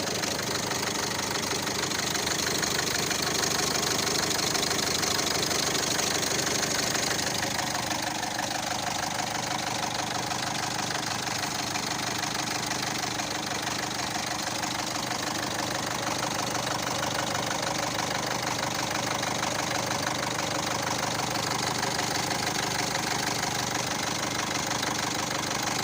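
Citroën C3 engine idling steadily with a rapid, regular clacking from the engine bay. The owner suspects the accessory belt, possibly a failed pulley.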